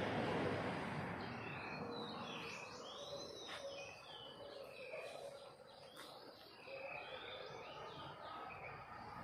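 Birds singing in the garden: a run of rising-and-falling whistled notes, several to a second, starting about a second in, over a steady outdoor hiss, with a louder rush of noise in the first second.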